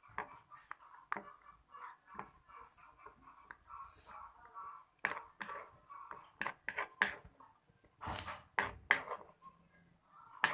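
Glue-based slime being stirred in a container: irregular sticky clicks and squelches, some in quick clusters, with the louder ones toward the end.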